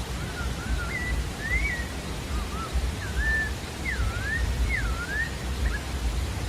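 Creamy-bellied thrush (sabiá-da-várzea) singing a string of short, clear whistled notes that rise and fall in pitch, about a dozen phrases in a row, over a steady background hiss and low rumble.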